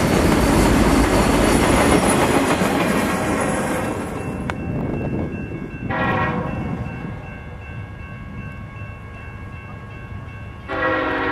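Freight train cars rolling past on the rails, the noise fading out about four seconds in as the end of the train clears. A locomotive air horn sounds in the distance, with a short louder swell about six seconds in, and a loud horn blast starts near the end.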